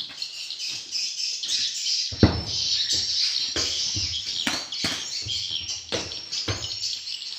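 Dense, high swiftlet twittering fills a swiftlet house, as from lure-call playback speakers. From about two seconds in, a string of sharp clicks or knocks comes roughly twice a second, the first of them the loudest.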